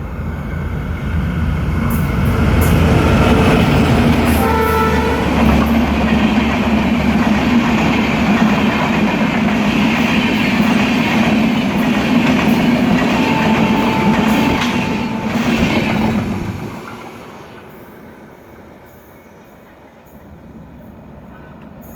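Train of Indian LHB coaches passing, with a low engine drone at first, then the steady rumble and clatter of wheels on the rails. A short horn blast comes about four and a half seconds in, and a single higher tone sounds for about two seconds near thirteen seconds. The noise drops away sharply about sixteen and a half seconds in.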